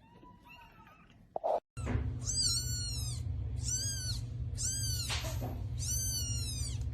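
A cat meowing repeatedly: high-pitched calls that fall in pitch, about one a second, starting about two seconds in over a steady low hum.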